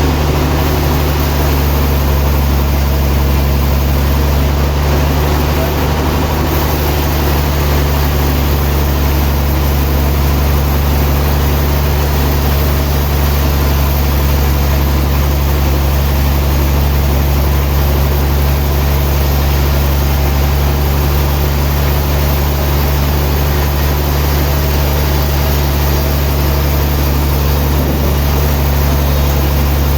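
Sawmill machinery running: a steady, loud engine hum with no change in load.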